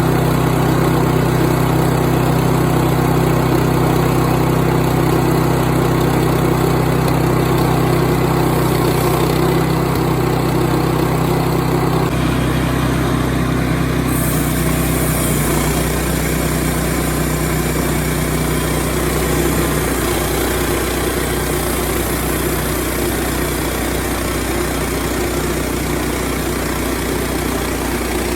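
Woodland Mills portable bandsaw sawmill's gasoline engine running steadily while sawing a log into boards; the engine note shifts about twelve seconds in and again a few seconds later.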